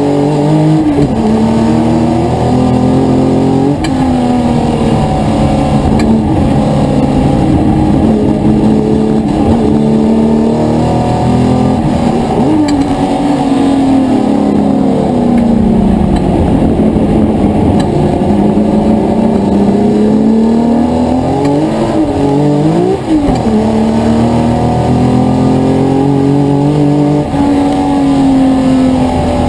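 Racing car engine at full throttle through the gears, its pitch climbing for several seconds at a time and dropping sharply at each upshift, a few times over.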